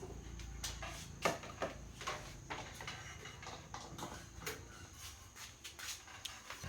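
A dozen or more sharp clicks and pops at uneven intervals, the loudest a little over a second in, over a faint low hum.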